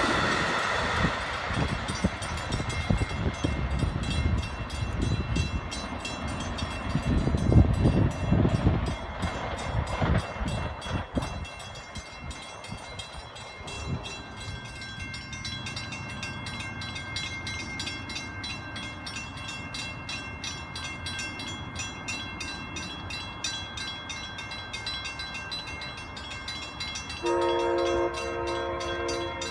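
Amtrak passenger train rolling away on the rails: a low rumble of wheels and cars that swells and falls for about twelve seconds, then dies down. Near the end, a train horn sounds a short chord blast.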